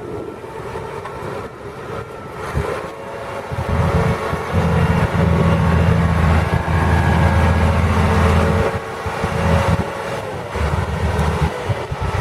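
County 1184 tractor's diesel engine running under load while ploughing. Its low rumble grows much louder for several seconds from about a third of the way in, drops away, then swells briefly again near the end.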